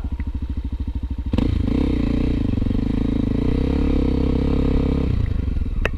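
Honda XR250 Tornado single-cylinder four-stroke trail bike idling with a steady pulse. About a second and a half in, a louder, higher engine note comes in suddenly and holds for about four seconds, then drops back to idle, followed by a single click near the end.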